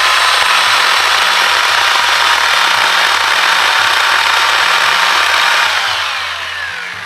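GreenWorks 10-inch, 6-amp corded electric chainsaw running at full speed and cutting into a branch. Near the end the trigger is released and the motor winds down with a falling whine, the cut stopped about four-fifths of the way through so the wood won't pinch the chain.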